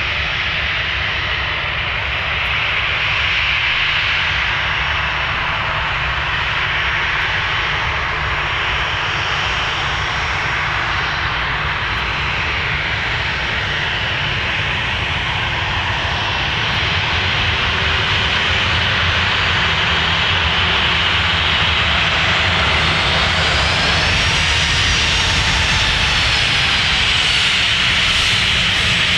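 Airliner engines running steadily and getting a little louder about halfway through, with a high whine that rises and falls back near the end.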